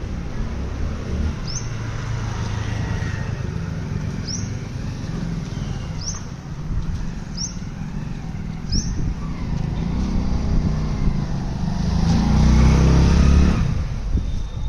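A motor vehicle running close by, its low rumble swelling loudest about twelve seconds in as it passes. A bird's short, high, rising chirp repeats every second or two through the first part.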